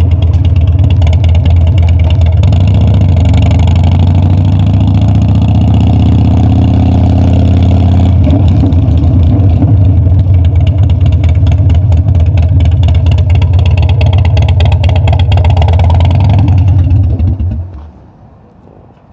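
Harley-Davidson Dyna V-twin engine running loud and steady, its pitch shifting slightly a couple of times, then dying away quickly near the end.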